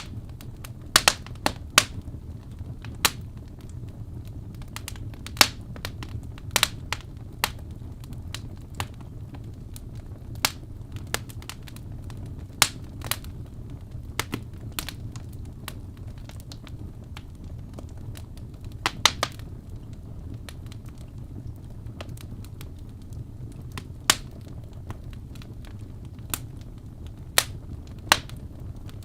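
Wood fire burning in a fireplace: logs crackling, with sharp pops at irregular intervals over a low, steady rumble of flame.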